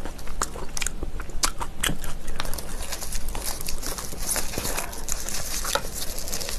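Close-miked chewing and biting of kimchi with rice and seaweed: a dense, irregular run of sharp crunching clicks.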